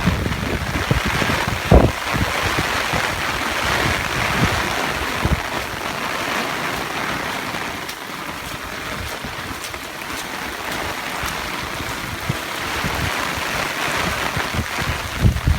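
Typhoon storm noise: a steady rush of heavy rain and fast-running river water, with wind buffeting the microphone in irregular low thumps, the strongest about two seconds in.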